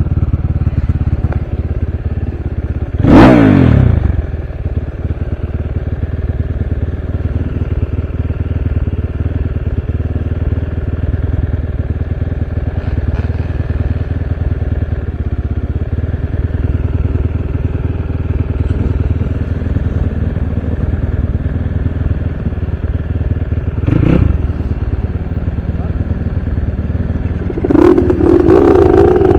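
Dirt bike engine running steadily, with a loud short burst of throttle that falls away about three seconds in, a smaller one later, and a rising rev near the end.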